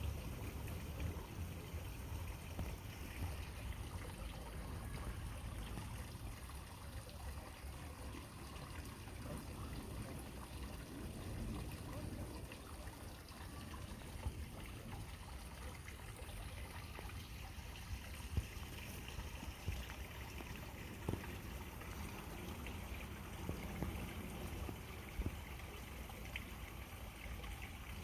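Water trickling steadily at a small pond, with a low rumble underneath and a few faint clicks.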